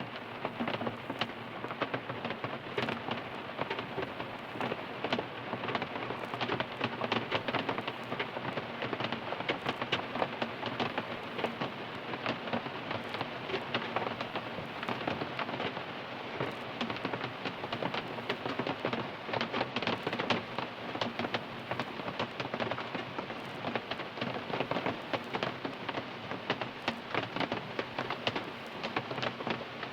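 Steady rain drumming on a car's roof and glass, heard from inside the car: a dense patter of many individual drop hits.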